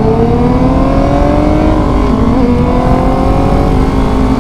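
Motorcycle engine accelerating, its pitch climbing steadily, with a short dip about halfway through as it shifts up a gear, then climbing again, over wind rush.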